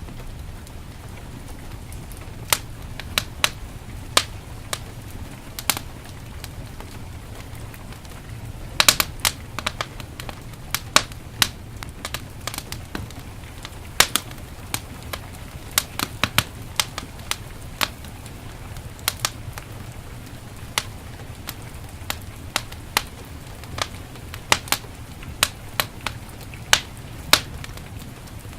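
Wood fire in a fireplace crackling, with irregular sharp pops and snaps, some in quick clusters, over a steady low rush of heavy rain.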